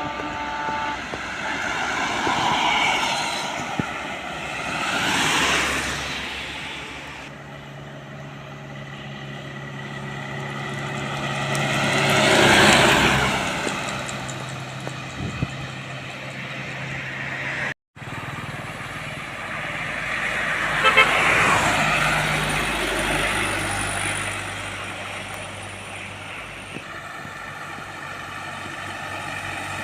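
Road traffic with heavy trucks among it, passing one after another, each swelling and fading as it goes by; the loudest pass comes about halfway through. A vehicle horn toots near the start, and the sound cuts out for a moment just before the middle.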